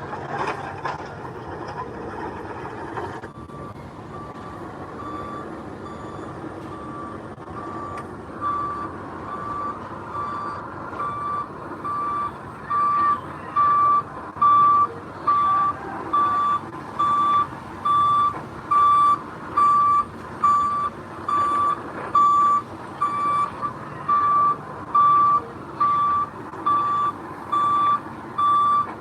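Dump truck's reversing alarm beeping steadily, about once a second, over the low running of its engine; the beeps start a few seconds in and grow louder from about ten seconds in as the truck backs closer. Before the beeping, a denser mechanical clatter cuts off suddenly.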